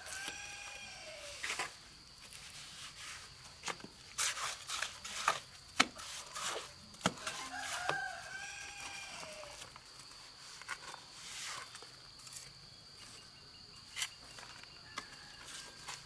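A rooster crows at the start and again about eight seconds in. Sharp clicks and knocks fall between the crows, the loudest about six seconds in. A steady high-pitched whine runs underneath.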